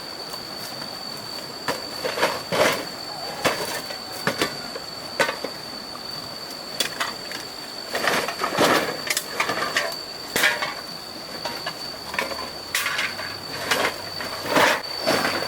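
Irregular clatters, knocks and scrapes of hard objects being handled, over a steady high-pitched whine.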